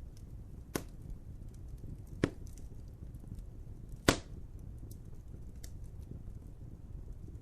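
Wood fire burning with a steady low rumble and faint crackling, broken by three sharp pops: about a second in, just past two seconds, and about four seconds in, the last the loudest.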